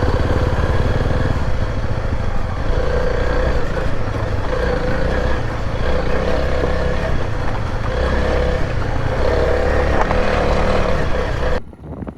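Motorcycle engine running steadily as the bike is ridden, then cutting off abruptly near the end.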